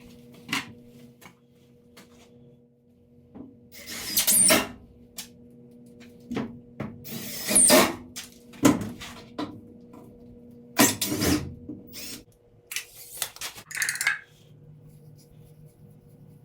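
Intermittent knocks, clatters and scrapes of tools and building materials being handled during plumbing and framing work, over a faint steady hum.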